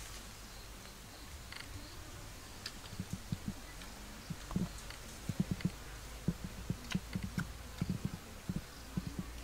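Eating sounds: soft chewing and mouth smacks, several a second and irregular, starting about three seconds in, with a few light clicks.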